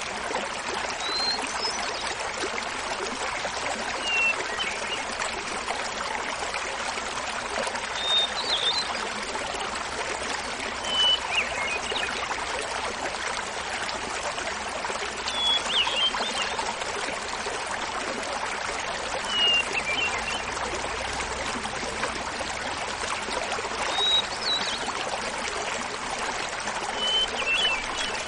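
Small mountain waterfall babbling steadily, with a hermit thrush singing short flute-like phrases about every three to four seconds, each at a different pitch.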